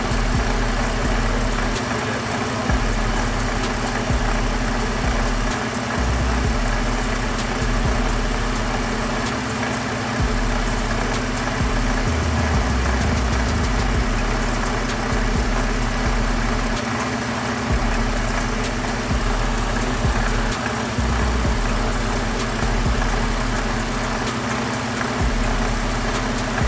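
Ford 3.5 EcoBoost twin-turbo V6 idling with a rattle that the mechanic traces to a failing water pump, its bearing worn so the pump wobbles and leaks.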